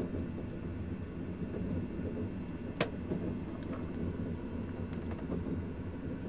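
Passenger train running along the track, heard from inside the carriage as a steady low rumble. A single sharp click comes nearly three seconds in, with a few fainter ticks later.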